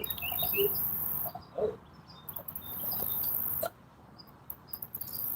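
Insects buzzing in high-pitched stretches of about a second that start and stop, with a short spoken "Oh" about one and a half seconds in.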